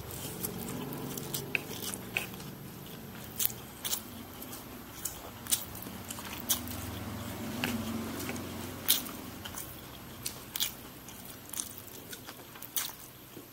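A man chewing a mouthful of fried rice vermicelli close to the microphone, with sharp, wet mouth clicks and smacks at irregular intervals, about one a second.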